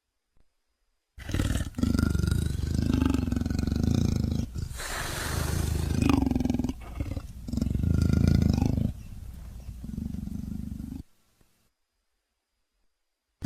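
Smilodon (saber-toothed cat) creature sound effect made of big-cat vocalizations: a run of deep roars and growls starting about a second in, with a breathy hissing snarl midway, ending abruptly.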